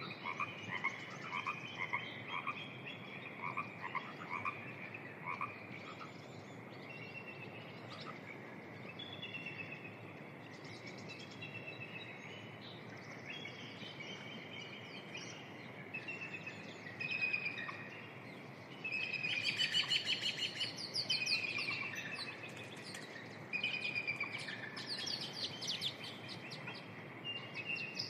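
A chorus of spring frogs, many calling at once in short, repeated pulsed croaks that overlap. The calling grows denser and louder for a few seconds about two-thirds of the way through.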